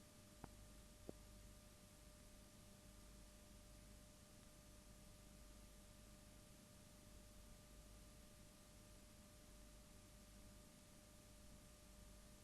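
Near silence: a faint steady hiss with a faint hum tone, and two small clicks about half a second and a second in.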